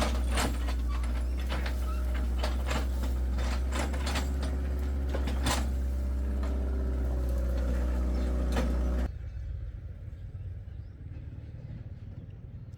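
An engine running steadily with repeated metallic knocks and clanks. The sound cuts off abruptly about nine seconds in, leaving a much quieter background.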